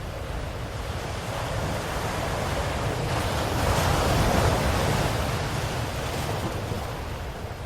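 Ocean waves washing ashore: the surf swells to a peak about halfway through and then ebbs away.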